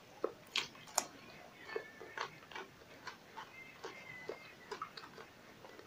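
Close-up chewing with the mouth closed: faint, irregular wet clicks and smacks of food being chewed.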